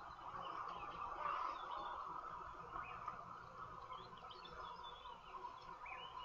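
Wild birds chirping and calling in the bush: many short, high calls scattered through a steady background drone.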